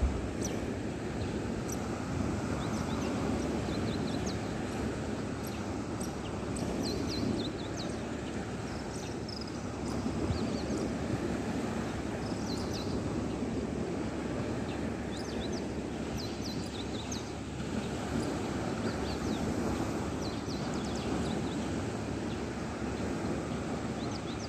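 Birds chirping in short, high calls scattered throughout, over a steady low rumbling noise.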